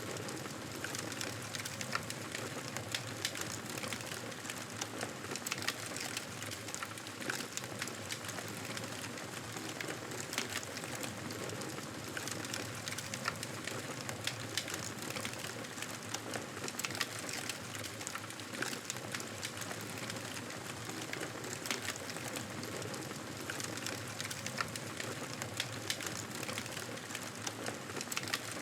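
Wood fire crackling in a fireplace: a steady hiss with frequent small sharp pops.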